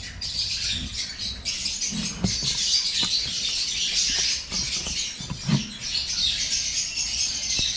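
A flock of caged lovebirds chattering continuously in dense, high-pitched chirps.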